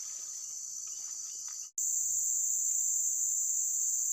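Steady high-pitched insect chorus, with a brief dropout just under two seconds in, after which it is louder.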